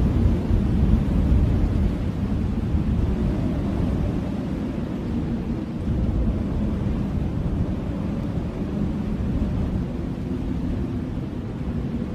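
Blizzard wind blowing in steady low gusts, a deep rumbling rush that swells and eases slightly, strongest in the first second or so.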